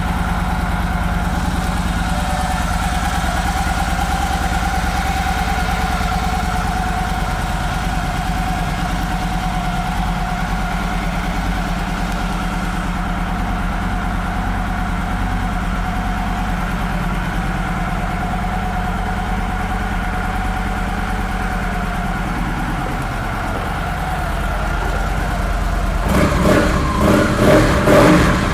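2012 Victory Cross Country's V-twin engine idling steadily, then revved in about four quick throttle blips near the end.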